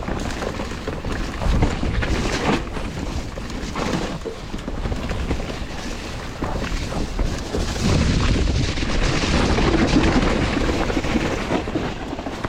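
Wind rushing over the camera microphone and the mountain bike rattling and knocking over rough, wet trail, with a heavy low rumble from the buffeting. It gets louder about eight seconds in.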